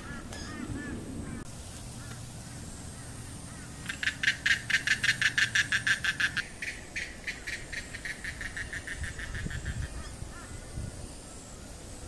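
A bird calling: a few short calls at first, then, about four seconds in, a loud rapid series of evenly spaced notes, about eight a second, lasting two to three seconds and trailing off more faintly.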